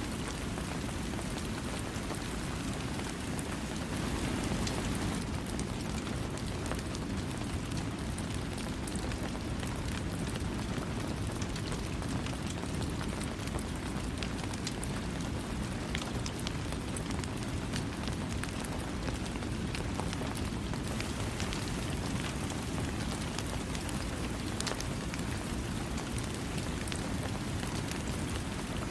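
Steady rainfall, a dense hiss with many individual drops ticking, without thunder.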